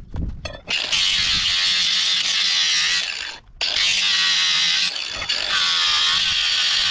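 Electric grinder grinding rust off a steel crowbar: a steady hiss of the grinder working on the metal, with a few short breaks near the start and one about halfway through where it comes off the bar.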